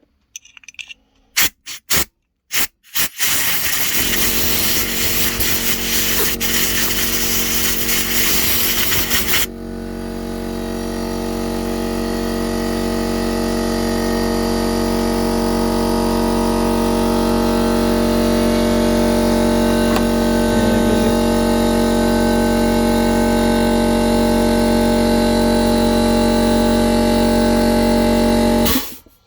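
Compressed air from a blow gun: a few short blasts, then a continuous hiss for about six seconds. After that an air compressor motor starts and runs with a steady hum, cutting off abruptly near the end.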